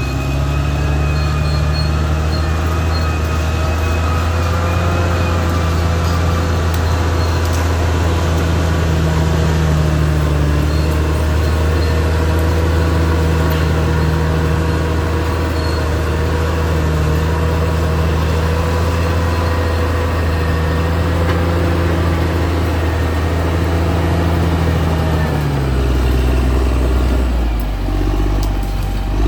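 Caterpillar D6R XL bulldozer's diesel engine running steadily under load, with a thin high-pitched whine above the engine note. Near the end the engine note drops and dips, then climbs back up.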